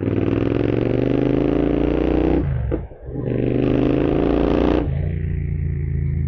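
Royal Enfield Continental GT 650's parallel-twin engine with a Code 6 tune, pulling hard with its pitch climbing. It dips briefly for an upshift and climbs again, then the throttle is rolled off near the end.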